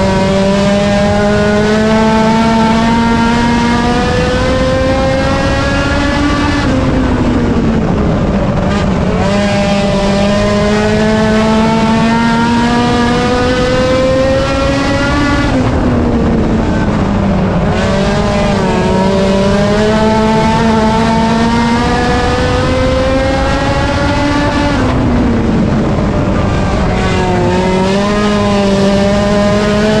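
Race car engine held at high revs, its pitch climbing steadily for several seconds and then dipping briefly as the throttle lifts, three times in a lap-like cycle.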